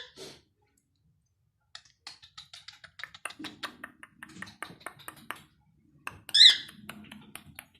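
Small pet parrots chirping: a run of quick short chirps and clicks starting about two seconds in, then one louder, higher call a little past six seconds.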